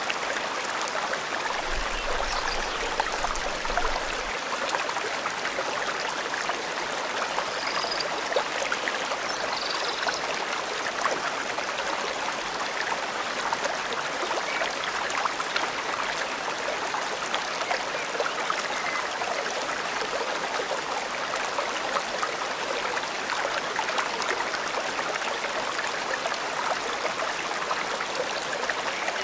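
Forest stream flowing steadily, a continuous rush and babble of water, with a couple of faint bird chirps about eight to ten seconds in.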